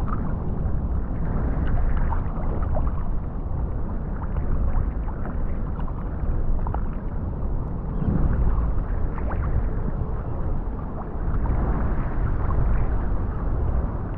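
Water sloshing and lapping against a kayak, with wind buffeting the microphone in a steady low rumble and small scattered splashes and ticks.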